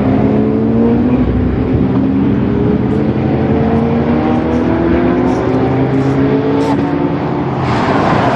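Ferrari 599 SA Aperta's V12 engine accelerating hard on track, its note climbing steadily in pitch through a long pull, with an upshift about seven seconds in. Near the end the sound grows fuller as the car comes close.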